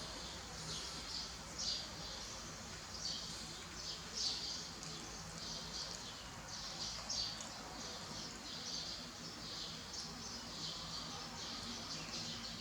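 Birds chirping in short, high, repeated calls, over a faint steady low hum.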